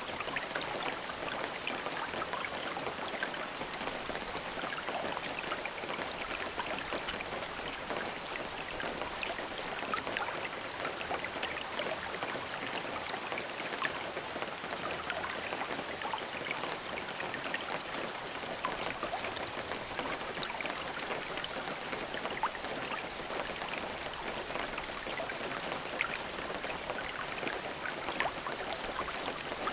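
Steady rain falling, a dense hiss of many fine drop ticks with no thunder.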